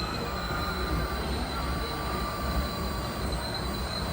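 Thin, steady whine of RC model trucks' electric motors and gearboxes, over a constant low rumble.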